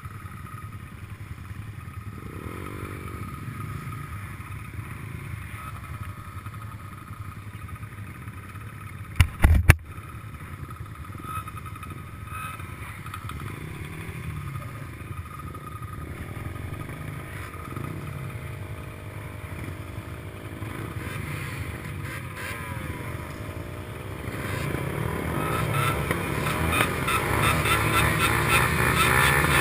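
Small 150 cc racing motorcycle engines revving and rising and falling in pitch, growing louder over the last few seconds. A brief loud knock comes about nine seconds in.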